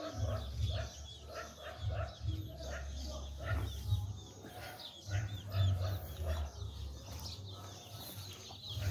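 Birds calling and chirping in quick short notes, over a low uneven rumble that comes and goes.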